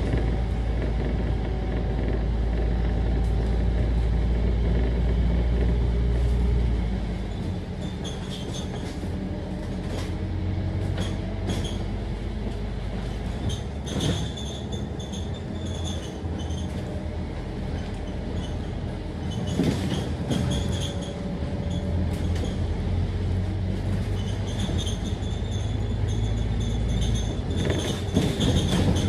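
Scania K310UD double-decker bus running under way: a heavy low engine drone with gliding engine tones for about the first seven seconds, then the engine eases off to a lighter drone. Clicks and rattles come through throughout.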